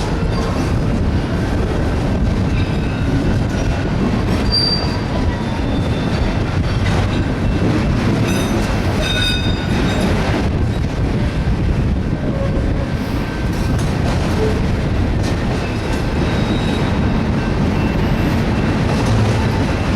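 BNSF auto rack freight train rolling past, a steady loud rumble of wheels on rail. Brief high wheel squeals come and go, mostly in the first half.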